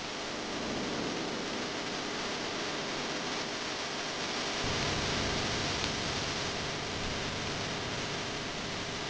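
Heavy rain falling as a steady, dense hiss, layered and edited; it swells slightly about halfway through, with more low rumble.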